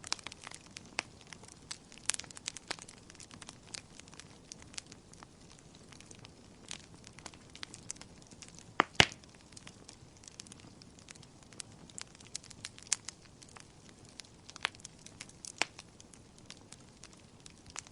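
Wood fire in a fireplace crackling, with irregular sharp pops and snaps over a faint hiss. The loudest is a quick double pop about halfway through.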